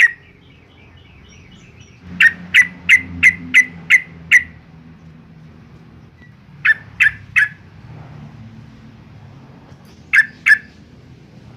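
Yellow-vented bulbul calling: loud, sharp notes in quick runs, about seven at roughly three a second, then three, then two near the end, with a faint soft twitter in the first second or so.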